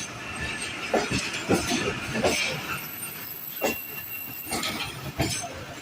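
Train at a railway station: irregular clanks and rattles of the rail cars over a steady hiss.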